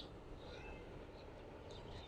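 A flock of sparrows giving faint, short, high chirps, scattered about half a dozen times in two seconds, over a low steady background rumble.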